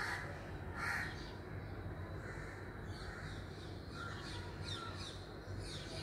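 Birds calling: two short, harsh calls at the start and about a second in, then a few quick, high chirps late on, over a steady low background rumble.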